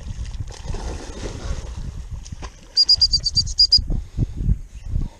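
A dog-training whistle blown as a fast string of about nine short, high pips, about three seconds in, over steady wind rumble on the microphone and low thumps.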